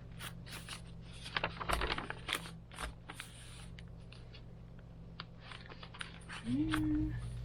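Paper pages of a handmade journal being turned and handled, with light rustles and taps. Near the end, a dog gives one short whine that rises and then holds.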